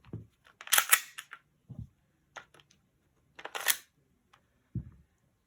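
Mechanical clicks and clacks of an Elite Force Glock 19 airsoft gas blowback pistol being handled. Two longer rattling clacks come about a second in and again about three and a half seconds in, with short sharp clicks and a couple of dull thumps in between.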